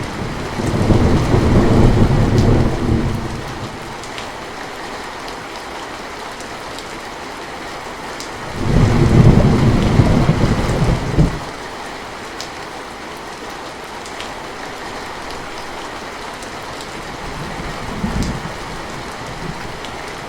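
Steady rain falling, with thunder rolling three times. A long rumble comes about half a second in, the loudest about eight and a half seconds in, and a short, weaker one near the end.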